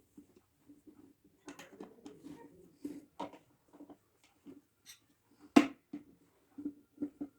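Light clicks and knocks of electric-kettle parts being handled and fitted together during reassembly, with one sharp, loud click about five and a half seconds in.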